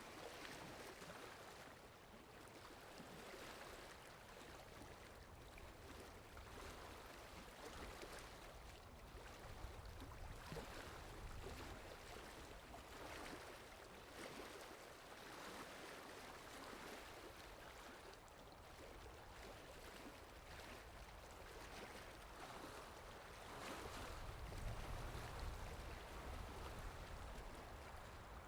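Faint water sound effect: a steady wash of moving water that swells and ebbs every few seconds, with a deeper low rumble growing near the end.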